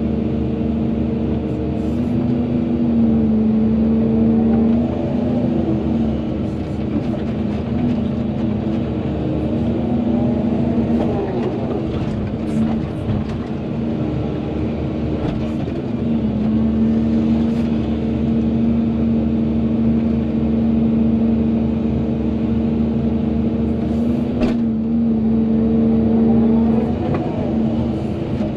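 Volvo EC220DL excavator's diesel engine running steadily under working load, with a tone that sweeps up and down a few times and occasional sharp knocks.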